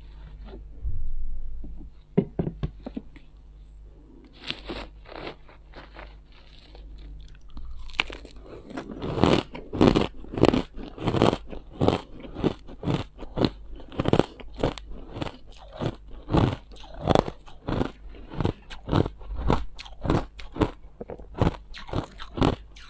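Ice being bitten and chewed in the mouth: a few scattered crunches at first, then steady, loud crunching about twice a second from about a third of the way in, over a low steady hum.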